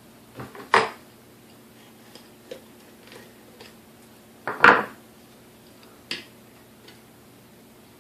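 Small metal parts and tools knocking and clinking on a workbench as a stand mixer is taken apart. Two louder knocks come about a second in and just before five seconds, a sharper click follows about six seconds in, and a few light ticks fall between.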